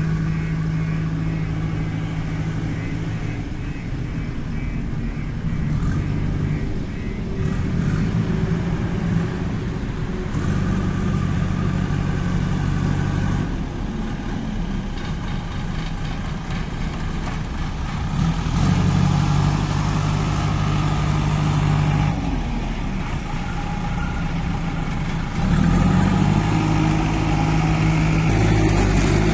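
Kirloskar diesel engine of a JCB 2DX backhoe loader running, its engine speed and note shifting up and down every few seconds.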